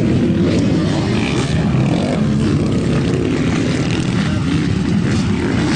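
Motocross dirt bike engines running in a steady, continuous drone, several bikes overlapping.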